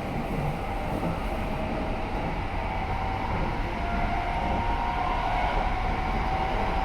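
Keikyu New 1000 series electric train running, heard from inside the car: a steady rolling rumble of wheels on rail. From about halfway through, a faint motor whine rises slightly in pitch.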